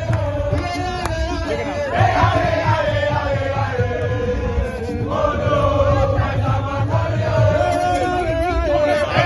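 A crowd of voices chanting and singing together over music.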